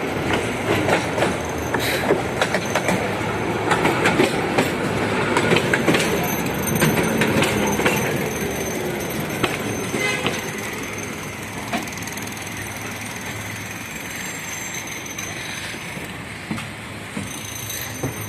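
A 71-619KT tram car running on its rails, heard from inside, with wheels clattering over track joints and the body rattling. A drive whine falls in pitch about six to eight seconds in, and the running noise eases off after about ten seconds as the tram slows.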